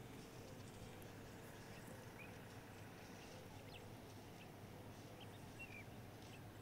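Near silence: faint open-air ambience with a few brief, faint bird chirps scattered through.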